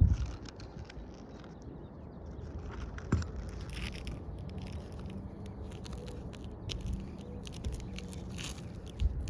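Asphalt roof shingles being handled and worked, giving irregular scraping, crackling and small clicks over a steady low rumble, with a sharper knock at the start and another about three seconds in.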